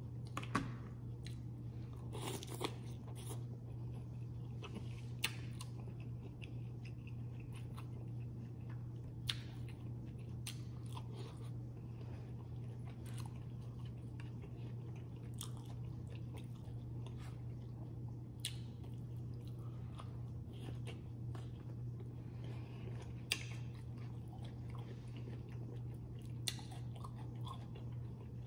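A person chewing and biting food close to the microphone, wet chewing with sharp crunches every few seconds.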